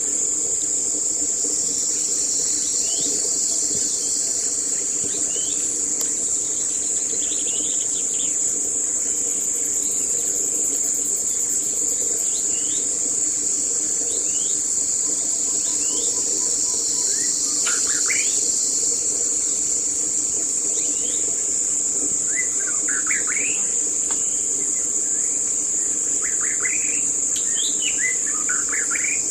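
Steady, high-pitched insect chorus of crickets or cicadas, with short bird chirps scattered through it that come more often in the second half.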